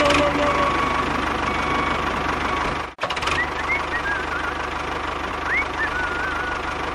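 Tractor engine running steadily with a rapid, even beat; it cuts out for an instant about three seconds in and carries on. A few faint high chirps sound over it in the second half.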